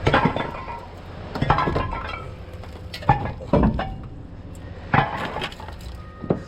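Repeated crashing impacts with clinking and breaking glass, about six blows, each followed by brief ringing, typical of a truck body being broken up for scrap.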